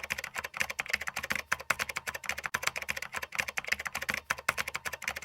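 Rapid, irregular clicking of computer keyboard typing, many keystrokes a second, cutting off abruptly just after the end.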